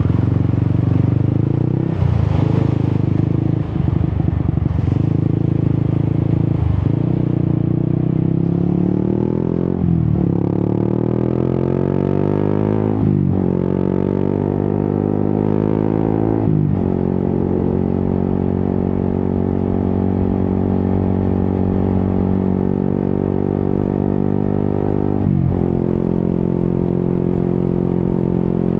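Yamaha XSR 155's single-cylinder engine through an Akrapovic exhaust, pulling hard through the gears: the revs climb and drop sharply at upshifts about ten, thirteen and sixteen seconds in. It then runs at steady revs, with one more upshift near the end.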